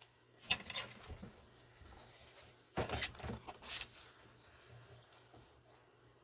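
Something being cut in half by hand in crafting: two short spells of crisp cutting and rustling, about half a second in and again about three seconds in.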